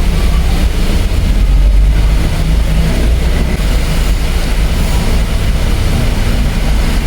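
Ford Everest's diesel engine idling steadily, running again after its no-start was cured by cleaning the crankshaft sensor connectors.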